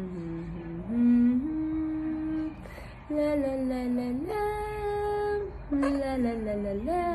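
A parrot humming a wordless tune in held notes that step up and down in pitch, with a sliding swoop down and back up near the end.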